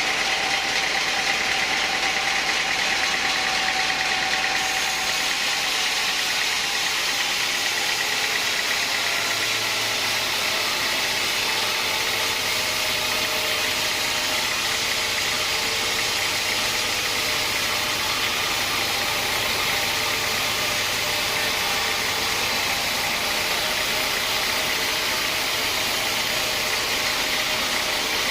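Sawmill saw machinery running steadily with a loud, even noise. The sound shifts about four and a half seconds in, and a low steady hum sets in around nine seconds.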